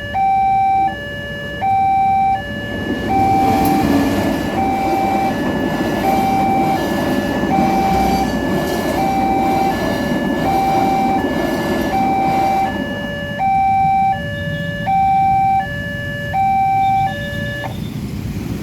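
An Indonesian railway level-crossing warning alarm sounds an electronic two-tone signal, alternating low and high about every three-quarters of a second, and cuts off suddenly near the end. Partway through, a passing train's rumble and wheel clacks rise under the alarm for about ten seconds.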